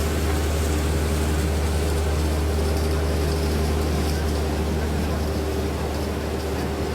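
Skid steer loader with a cold planer attachment running steadily: a constant low engine drone under a steady noisy haze.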